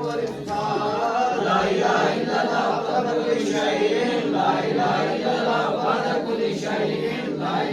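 A group of voices chanting together in unison without instruments: devotional dhikr, a litany of the names of Allah.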